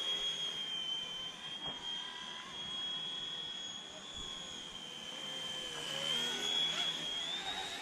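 Small battery-powered RC helicopter flying, its electric motor and rotor giving a steady high whine that dips and rises slightly with the throttle, climbing in pitch near the end.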